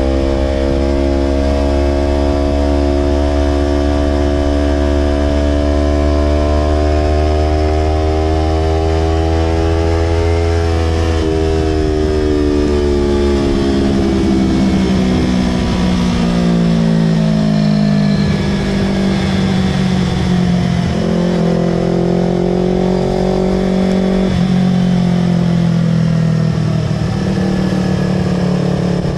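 Yamaha R25's 250 cc parallel-twin engine running loud through an aftermarket Villan Pro 2 exhaust. The revs climb slowly for about ten seconds, drop away over the next few seconds, then settle lower with a few short blips of throttle.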